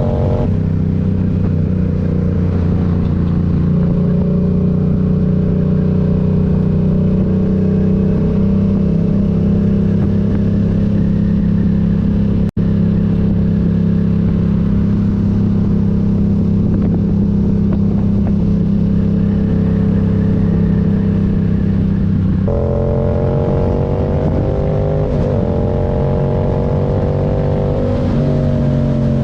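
Yamaha MT-07's parallel-twin engine running at a steady cruise. Its pitch drops with an upshift just after the start, then holds for about twenty seconds. About 22 seconds in the pitch jumps up with a downshift, then rises and falls a little. The sound cuts out for an instant near the middle.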